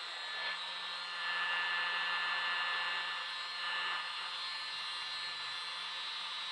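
A tiny electric air blower running steadily, a whirring rush of air with a constant high-pitched whine, as it pushes poured acrylic paint across the canvas.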